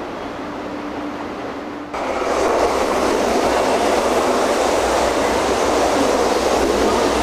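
300 Series Shinkansen train running, a loud steady rush of rail and running noise. About two seconds in it starts abruptly, replacing a quieter steady hum with a faint tone.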